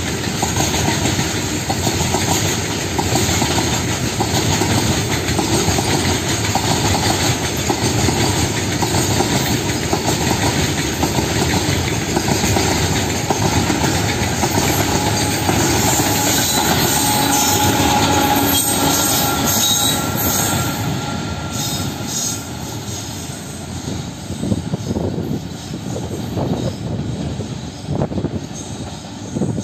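Freight train of BCN covered wagons rolling past, wheels clattering over the rail joints with some squeal. The noise eases after about twenty seconds, leaving separate clacks near the end.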